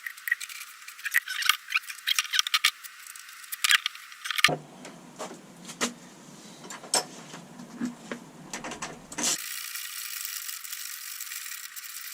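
Small metal parts clinking and rattling in irregular taps as a bolt and nut are fitted by hand to a motorcycle exhaust silencer's mounting bracket. A steady hiss comes in for the last few seconds.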